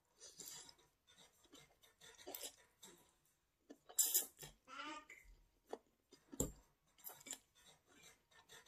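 Close-up eating sounds from a bowl of ramen noodles with dumplings: irregular chewing and mouth noises, with a louder burst about four seconds in and a sharp click a couple of seconds later.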